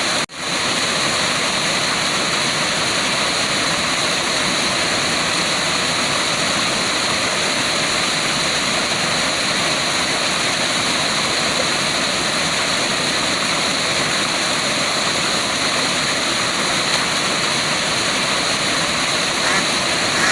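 Waterfall: a steady, unbroken rush of falling water, with one sudden dropout of a fraction of a second near the start.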